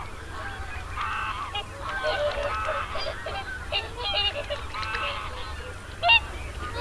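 A flock of geese honking, many calls overlapping one another, with one loud call about six seconds in.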